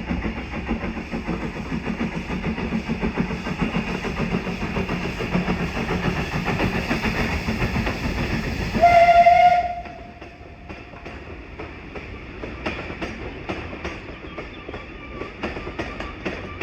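Heritage train running with a heavy rumble and a steady low hum, then one short whistle blast of under a second, the loudest sound here. After that the rumble drops away to a quieter run of wheels clicking over rail joints.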